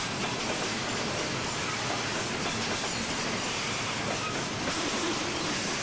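Loaded coal hopper cars of a Norfolk Southern freight train rolling past, a steady, dense noise of steel wheels on the rails.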